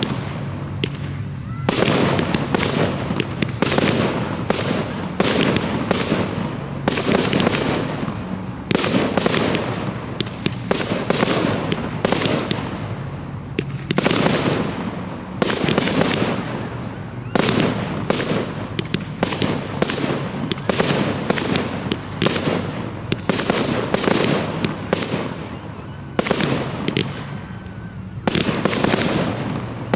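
Professional display fireworks: aerial shells and cakes bursting in rapid, overlapping volleys of loud bangs and crackles, with a few short lulls between barrages.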